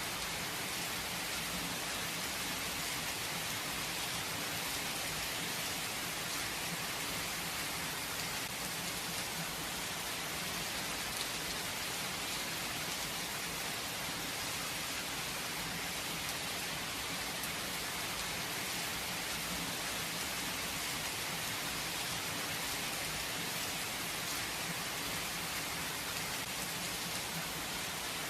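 Steady gentle rain falling, an even hiss of many drops with no thunder.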